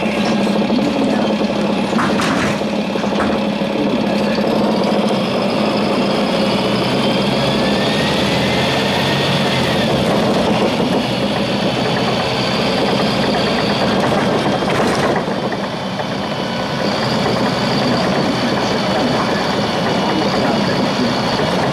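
Volvo 7700A city bus engine running steadily, with a faint rising whine about seven to ten seconds in and a few sharp clicks.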